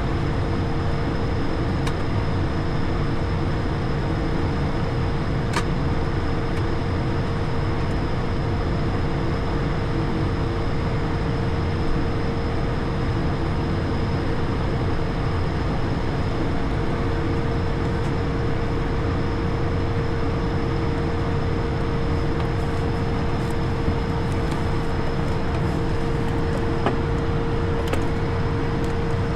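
Steady ambient noise in the cockpit of an Airbus A220 with its Pratt & Whitney geared turbofans running: an even rumble with a constant hum and a faint high whine, and a few light clicks.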